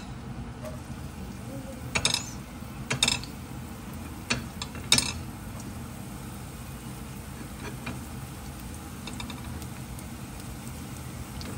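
Chopped red onion frying gently in oil in a nonstick wok over a steady low rumble, with four sharp clicks between about two and five seconds in.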